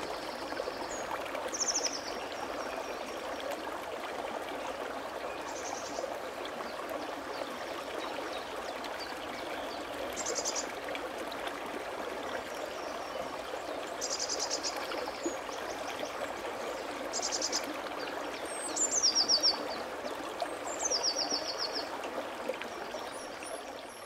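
Steady rush of running stream water, with short, high bird trills every few seconds above it; two trills near the end drop in pitch.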